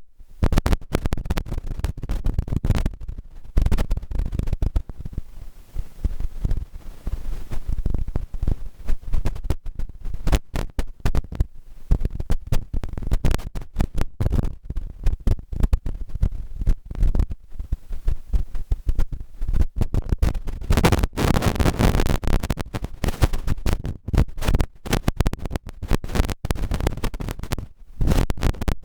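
Loud, irregular rumbling and scratching noise on the microphone, choppy and uneven, heaviest in the low end, with a denser stretch a little past the middle.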